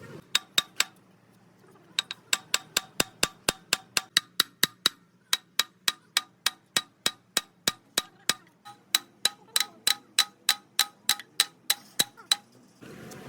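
Hammer blows on metal, struck in a steady rhythm of about three a second, each with a short ringing note. Three blows come first, then a pause of about a second before the run resumes.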